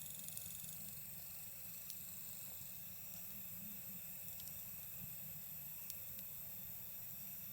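Night insects trilling steadily in a chorus, with a wood campfire giving a few sparse, sharp pops.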